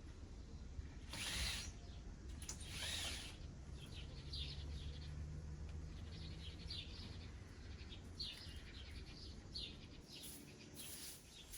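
Small birds chirping: short high calls every second or so over a low steady background rumble. Two louder, noisier sounds come about one and three seconds in.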